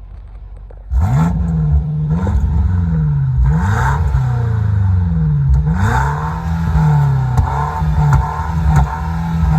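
BMW M8 Competition's twin-turbo V8 being revved hard, starting about a second in: the pitch climbs and drops several times, then is held flat against the rev limiter for the last few seconds, with a few sharp exhaust pops.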